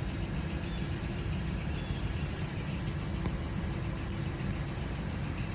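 Car engine idling steadily while it warms up after a cold start.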